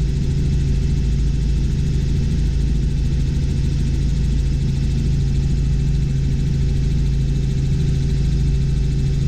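Robinson R44 Clipper II helicopter in cruise flight heard from inside the cabin: the steady, unchanging drone of its piston engine and rotors, a constant low hum.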